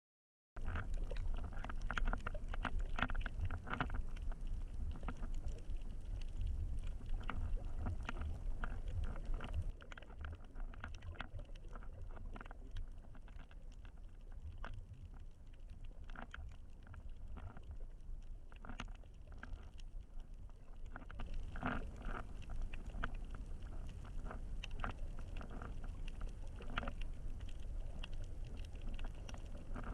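GoPro in its waterproof housing during snorkeling, picking up a muffled low rumble of water sloshing and rushing over the case, with scattered clicks and knocks. From about ten seconds in to about twenty-one seconds the sound turns duller and a little quieter, then brightens again.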